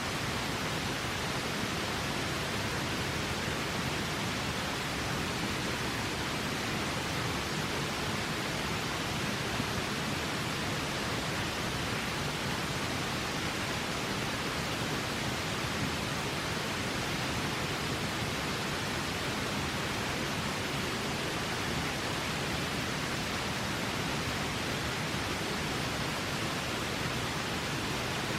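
A river flowing: a steady rushing of water with no change in level.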